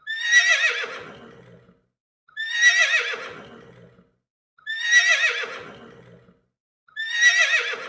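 Horse neighing four times, the same whinny repeated about every two and a quarter seconds. Each starts high with a quavering pitch and trails off lower over about a second and a half.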